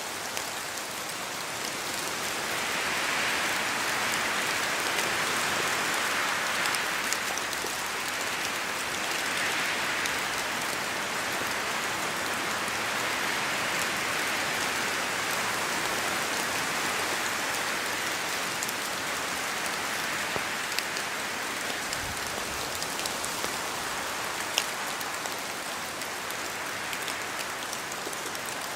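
Steady rain falling in a spruce forest, with occasional heavier drops and wind swelling in gusts through the trees.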